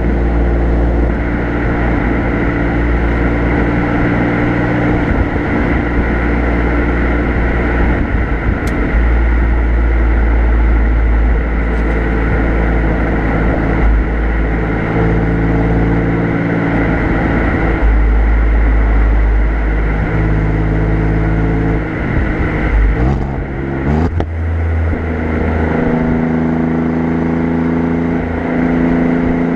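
Exhaust of an Alfa Romeo Giulia Quadrifoglio's twin-turbo V6 heard from the rear bumper while driving at easy pace. The engine note holds steady and shifts up and down in pitch in steps, with a quick rise in revs about 23 seconds in.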